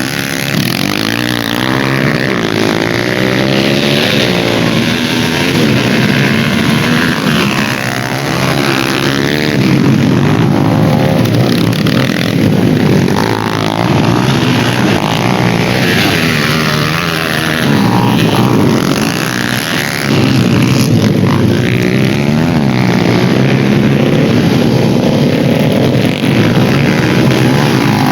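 Several dirt bike engines revving up and down as the bikes race round a dirt autocross track, their pitches rising and falling and overlapping.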